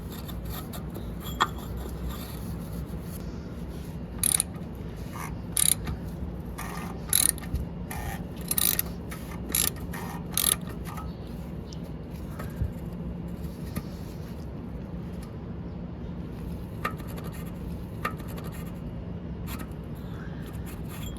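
Ratchet wrench clicking in about eight short bursts, tightening the oil filter housing cap with a filter wrench. A steady low hum runs underneath.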